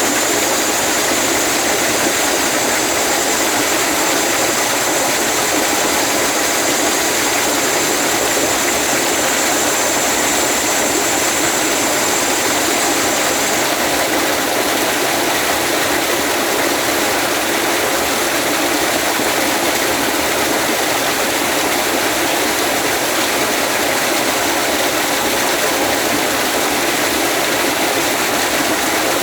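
Waterfall rushing with a steady, even roar of falling water. A thin high whine sits over it and stops about halfway through.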